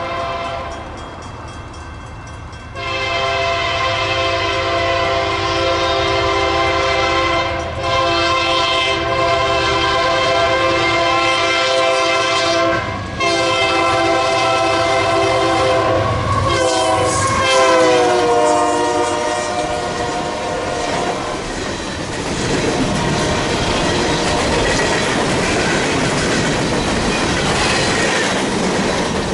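Union Pacific diesel locomotive's multi-note air horn sounding in long blasts with two brief breaks, then dropping in pitch as the locomotive passes. Coal train cars then roll by with wheels clattering over the rail joints.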